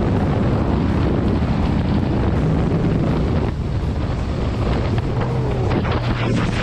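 Wind rushing over the microphone of a motorcycle riding at speed, with the engine's steady hum underneath.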